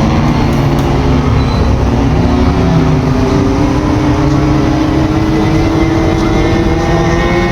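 Several racing power boat engines warming up, running steadily at fast idle, with one engine's pitch creeping slowly upward.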